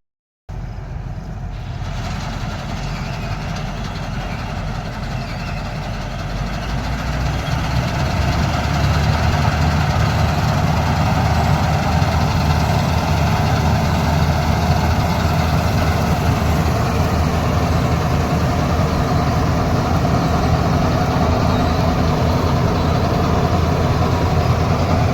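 Heavy farm-machinery engine running steadily, growing louder about seven seconds in and then holding at that level.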